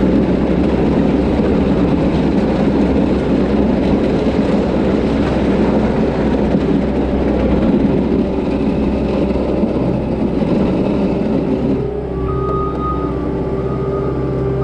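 Diesel engine of a Cat 257 tracked skid steer running hard while plowing snow. About twelve seconds in it drops to a lower, steadier note with clear humming tones.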